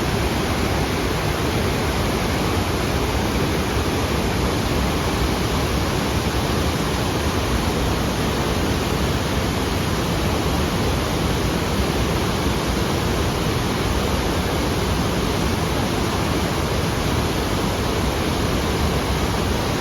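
Waterfall rushing: steady, unbroken noise of falling and tumbling water.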